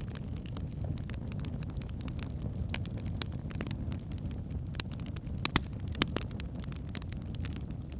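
Wood fire burning in a fireplace: a steady low rumble under irregular crackles and pops, with two sharper pops about five and a half and six seconds in.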